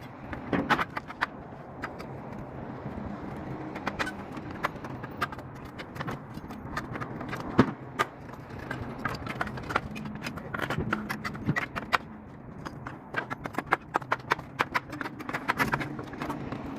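Irregular sharp knocks and clatter of work on wooden pallets, over a low steady hum, with one loud knock about halfway through.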